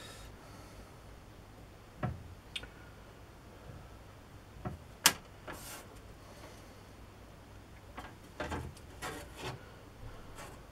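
Scattered knocks, a sharp click about five seconds in, and some scraping as pieces of metal and tools are handled and shifted on a workbench.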